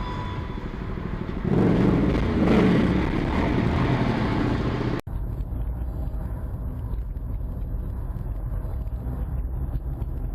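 Vehicle engine running steadily, louder and rougher for a few seconds, then cutting off abruptly about halfway through into a steadier, duller hum.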